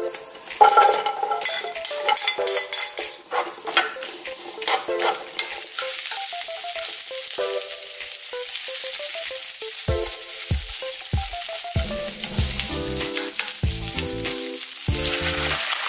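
Vegetables tipped into a hot oiled frying pan with a few knocks and clatters, then a steady sizzle from about five seconds in as they stir-fry in the oil.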